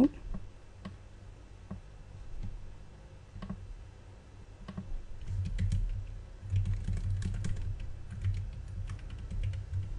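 Typing on a computer keyboard: a few scattered keystrokes at first, then a quicker run of keys over the second half.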